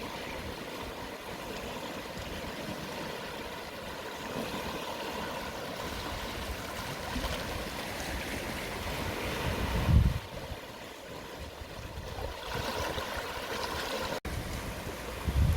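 Gentle sea waves washing onto the shore at low tide, a steady wash of surf. A short low thump about ten seconds in and another at the very end.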